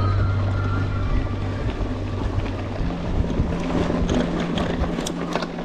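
Wind rushing over an action camera's microphone as a mountain bike is ridden off-road, with a low hum under it. Sharp clicks and rattles of the bike over rough ground come in a cluster near the end.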